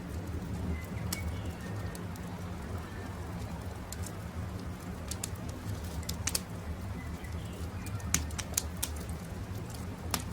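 Campfire crackling, with frequent sharp pops and snaps over a steady low rumble. A few faint bird calls are heard.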